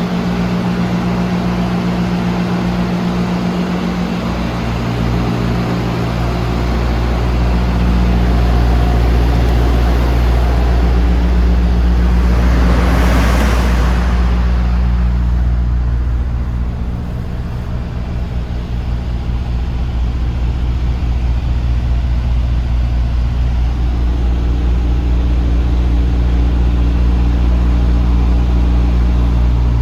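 The DAF CF290's 290 bhp turbo diesel truck engine running steadily, its low note shifting slightly a few times. A short burst of hiss comes about 13 seconds in.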